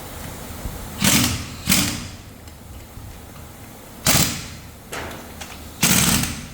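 Assembly-line machinery in an engine factory: four short, sharp hissing bursts, about a second in, just after, at about four seconds and near the end, over a steady background hum.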